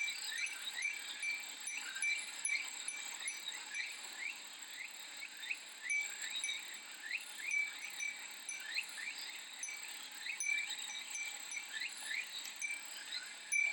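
Japanese fūrin wind chime tinkling with many quick, irregular strikes over a steady, high-pitched drone of cicadas.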